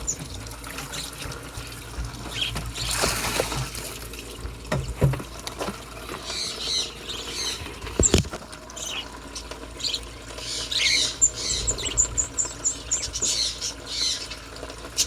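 Small aviary birds chirping in quick runs of short, high calls, busiest in the second half, with scattered rustling and knocks from close handling.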